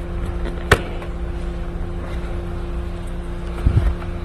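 A single sharp click about a second in and a dull knock near the end, over a steady low hum: parts and tools being handled while engine-bay covers come off.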